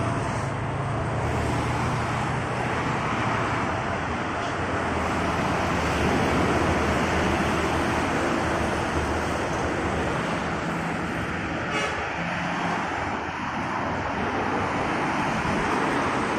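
Road traffic: a steady rush of tyre and engine noise from passing vehicles, with a low engine hum underneath and a brief click about twelve seconds in.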